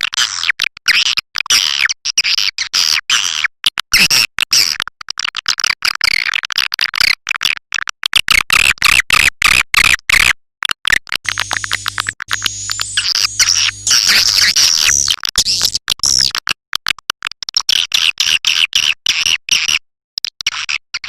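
Swiftlet call recording (suara panggil walet), of the kind played from speakers in swiftlet houses to lure the birds in. It is a dense, fast chatter of high twittering chirps, with a couple of brief breaks.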